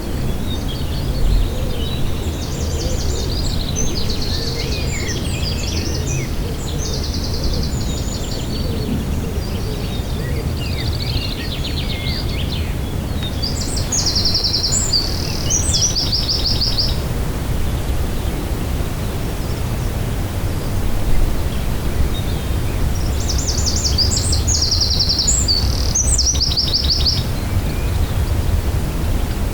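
Songbirds singing short, rapid, high trilled phrases in several bursts, the clearest about halfway through and near the end, over a steady low outdoor rumble.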